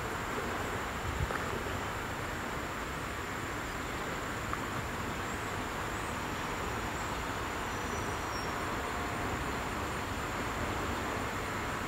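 MARC commuter train approaching from far down the line, heard as a steady low rumble.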